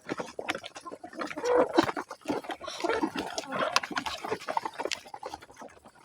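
Farm animal calls: chickens clucking in short, irregular bursts.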